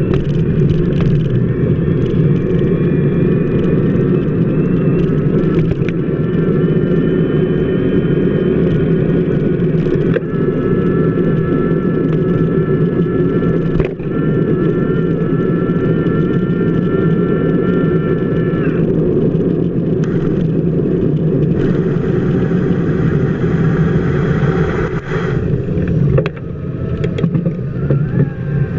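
Loud, steady rumbling road noise picked up by a camera mounted on a bicycle's wheel hub as the bike rolls over wet pavement. A thin high whine sits over the rumble and drops out about two-thirds of the way through.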